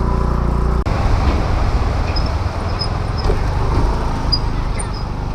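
Motor scooter engine running under way, with steady road and wind noise; the sound jumps at an edit about a second in.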